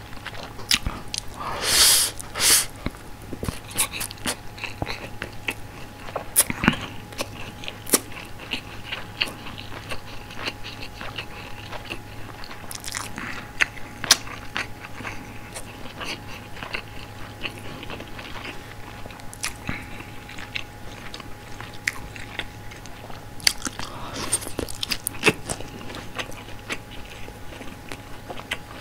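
Close-miked chewing of a mouthful of steamed white rice, with frequent soft wet mouth clicks. A louder wet mouth sound comes about two seconds in, and another cluster of clicks near the end.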